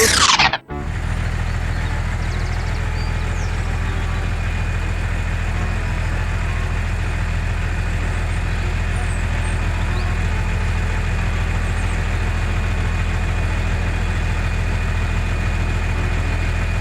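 A mini tractor's small engine idling steadily with an even, unchanging drone. It starts abruptly about half a second in.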